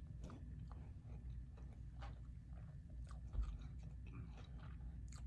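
Close-miked chewing of a mouthful of veggie pizza on cauliflower crust: scattered wet mouth clicks and small crunches over a low steady hum, with a single low thump a little past the middle.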